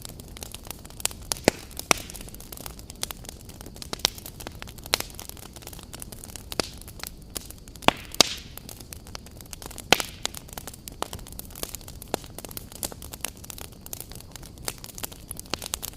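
Wood campfire crackling: irregular sharp pops and snaps over a steady hiss of burning, with a few louder pops.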